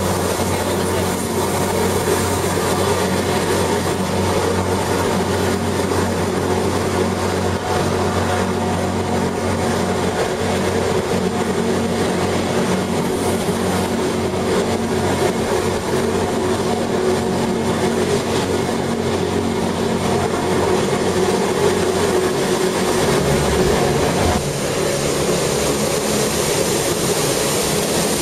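Gornergratbahn electric rack-railway train running steadily downhill, heard from inside the car as a continuous rumble with a steady motor hum. Its low tone shifts about two-thirds of the way through.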